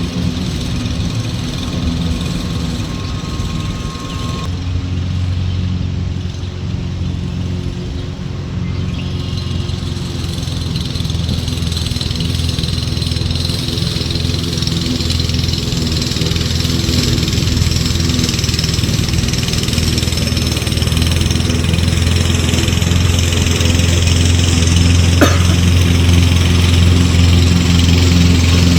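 Toro self-propelled gas push lawnmower engine running steadily under load while mowing, growing louder as it comes nearer. A single brief click sounds near the end.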